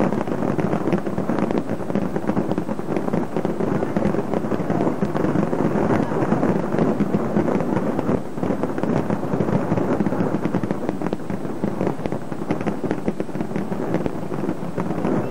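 Fireworks display going off: a dense, continuous crackle of many rapid bursts.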